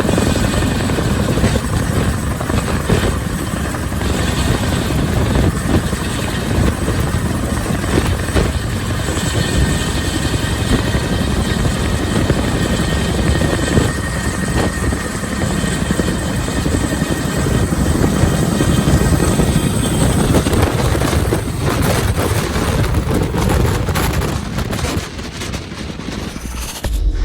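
Boeing CH-47 Chinook helitanker's tandem rotors and turbine engines running, a dense rapid rotor chop with a steady high whine over it.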